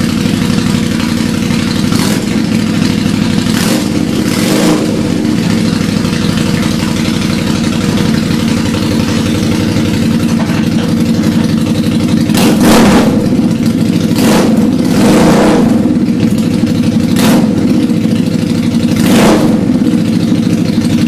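Harley-Davidson Night Rod Special's V-twin idling through Big Rig aftermarket exhaust pipes, with the throttle blipped about eight times into short revs that rise and fall back to idle. It runs inside a building, which colours the exhaust note.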